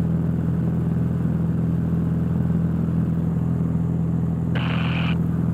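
Cessna 172's piston engine and propeller running steadily at climb power, a constant drone heard inside the cabin. A short burst of higher hiss comes near the end.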